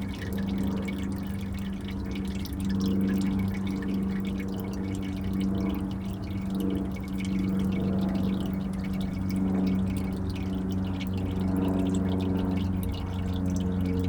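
Used engine oil streaming from the drain plug hole of a 7.3 Powerstroke diesel's oil pan into a drain pan. It pours steadily, with a ringing hum held under the splashing.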